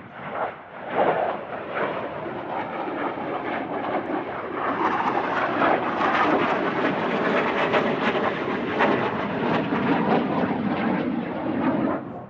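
Jet aircraft flying past at low altitude, a loud, even engine roar that builds over the first few seconds, stays strong through the middle and cuts off suddenly near the end.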